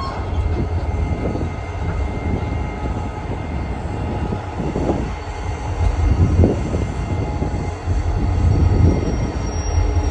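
Train moving on the track: a steady low rumble of wheels and cars rolling on rail, louder from about six seconds in.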